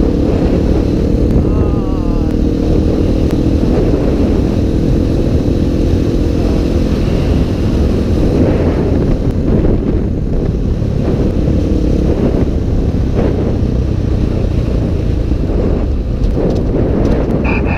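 Motorcycle riding at speed: the engine runs steadily, mixed with a constant rush of wind noise on the microphone.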